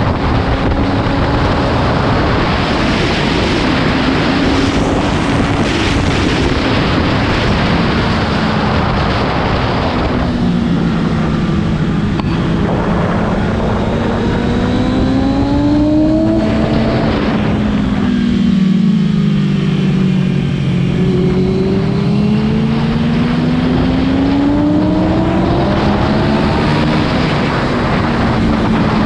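Motorcycle engine at speed on a racetrack, with heavy wind rush for the first ten seconds or so. Then the engine note climbs under acceleration, falls away for several seconds as the bike slows, and climbs again.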